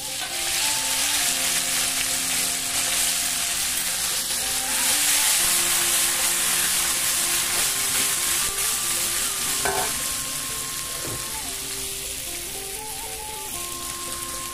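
Heavy rain falling: a dense, steady hiss that starts abruptly, with background music playing beneath it.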